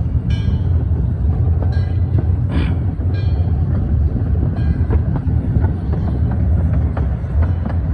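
Miniature steam train heard from the riding car: a steady low rumble of the cars rolling on the track, with scattered clicks from the wheels on the rails and a few short high squeaks in the first five seconds.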